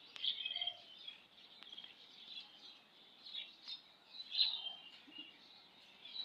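Several birds chirping with short, high calls, one after another, loudest just after the start and again at about four and a half seconds.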